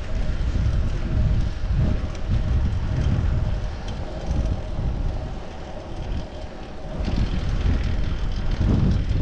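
Wind buffeting the microphone of a chest-mounted action camera on a moving bicycle, a gusty low rumble with a faint steady hum under it. The buffeting eases for a couple of seconds about halfway through, then picks up again.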